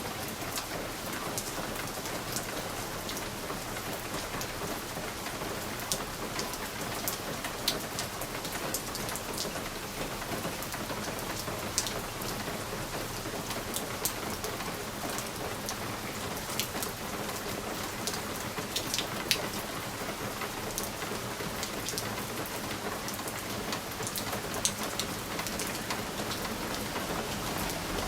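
Steady rain falling on a window, a continuous even hiss with scattered sharp drop ticks against the glass.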